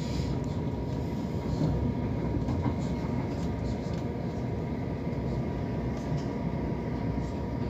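Passenger train running, heard from inside the carriage: a steady low rumble with a faint steady whine above it.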